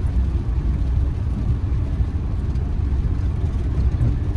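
Steady low engine and road drone heard from inside the cab of a moving campervan.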